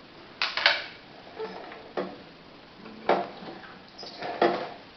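A handful of separate, irregular knocks and clicks, about six or seven, spaced roughly half a second to a second apart.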